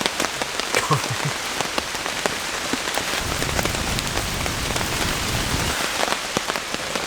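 Steady heavy rain falling, with many individual drops striking close by as sharp ticks. A low rumble sits under it for about two and a half seconds in the middle.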